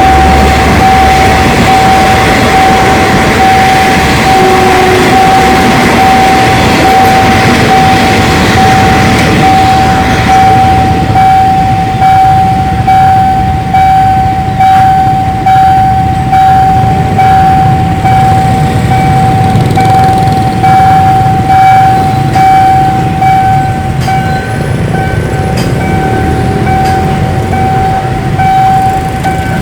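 Railway level-crossing warning alarm sounding with a steady pulsing tone while a train runs past, loudest for about the first ten seconds. The alarm stops just before the end.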